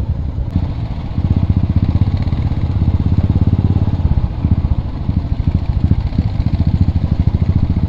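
Royal Enfield Bullet's single-cylinder engine running with a steady thump. It gets louder a little over a second in.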